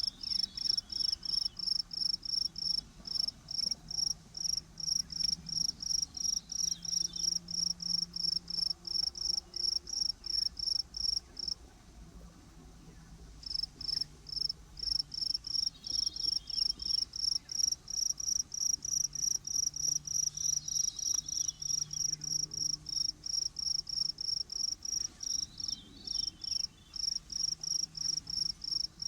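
Cricket chirping in a steady, even rhythm of about three short high chirps a second, pausing briefly about halfway through, with a faint low hum underneath.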